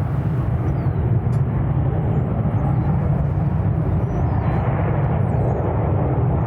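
Jet airliner engines giving a steady, deep rumble that swells slightly at first and then holds loud, with faint bird chirps above it.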